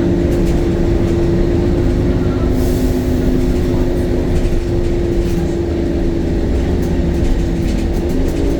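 Temsa Avenue LF city bus running with its DAF diesel engine and ZF gearbox: a steady low drone with two steady held whining tones over it. A brief hiss comes about three seconds in, and a few light clicks near the end.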